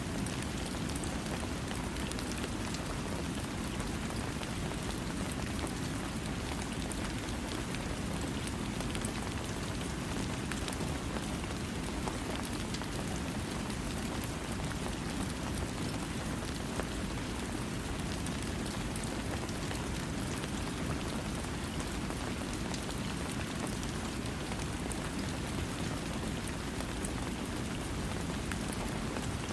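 Steady rain falling, without thunder: an even hiss with many fine drop ticks over a fuller low rumble of rainfall.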